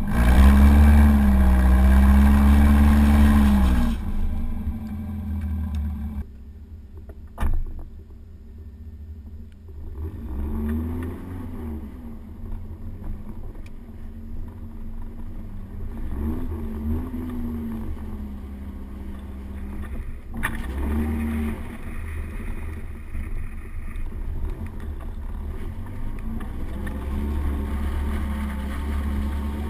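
Volvo 740 GL engine revving hard and rising in pitch for the first few seconds, then easing off, with several shorter swells of revs as the car drifts on snow. Wind rushes over the microphone throughout, and there are two short sharp knocks, about seven and twenty seconds in.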